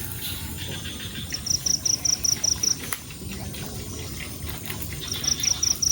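Insect chirping in rapid trains of high, evenly spaced pulses, about five a second, two runs a few seconds apart, over a steady low background hiss.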